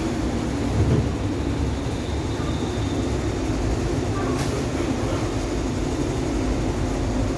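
Hyundai Rotem R-train electric multiple unit running on the MTR East Rail line: a steady low rumble of wheels and running gear, with a thump about a second in and a sharp click about four and a half seconds in.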